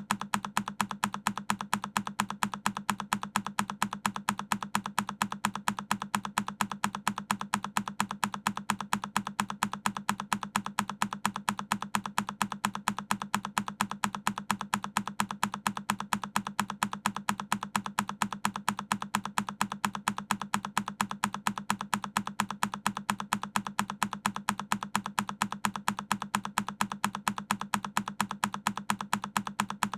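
A single key press on a Keychron K10 mechanical keyboard, looped: the same sharp key click repeating at an even, rapid rhythm, several clicks a second, with no change in pace or level.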